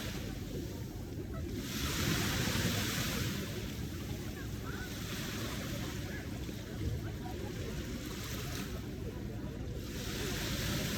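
Ocean surf breaking in repeated waves, each one a rising and fading rush of hiss, about three in a row, over a steady low rumble.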